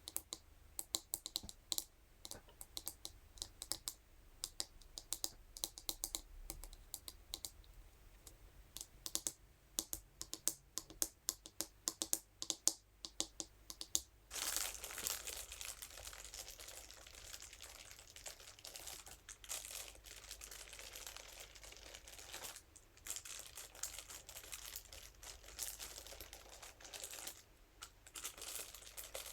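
Rapid light tapping and clicking of a scalp massage brush worked against a surface, then about halfway through a switch to continuous crinkling that pauses briefly a few times.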